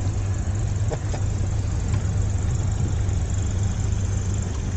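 Boat engine running steadily under way: a low, even drone with a constant rush of noise over it.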